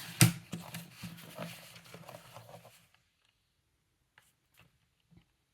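A small paper cutter working through thick paper: a sharp clack about a quarter second in, then about two and a half seconds of scraping and crackling as the blade drags through the sheet, rough enough that the paper may tear. After that it is nearly quiet, with a few faint ticks.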